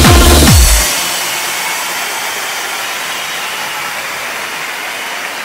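Electronic dance music with a heavy kick drum cuts off under a second in, leaving a steady rushing noise with no tone or rhythm in it.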